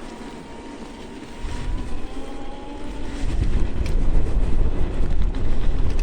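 Wind buffeting the microphone on a moving electric bike, swelling to a loud low rumble about three seconds in as the bike gathers speed; a faint steady whine sits under it in the first couple of seconds.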